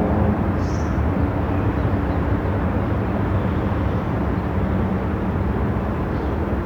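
Moving car: steady low road rumble and tyre noise with a faint engine hum. A short high chirp about a second in.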